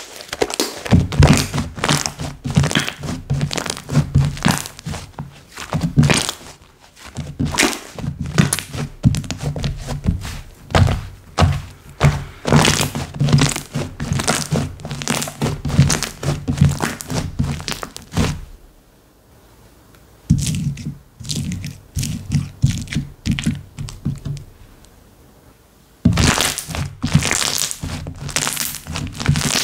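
Hands pressing, poking and squishing slime, making dense irregular clicky pops over soft low thuds. The sound pauses briefly about two-thirds of the way through, then resumes with fewer pops before the clicking picks up again near the end.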